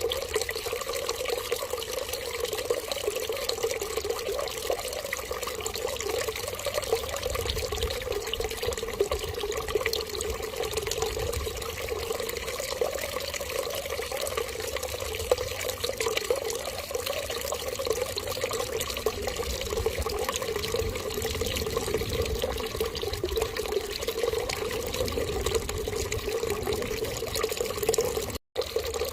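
Water running steadily in an even stream, with a momentary cut to silence just before the end.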